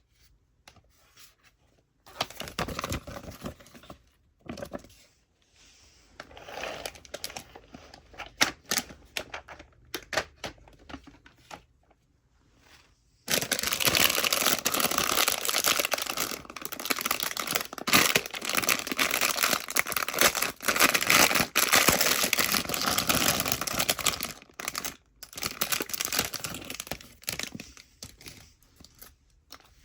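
Toy packaging being handled and torn open by hand: scattered crinkles at first, then about ten seconds of continuous tearing and crinkling, the loudest part, before it tapers off into a few last rustles.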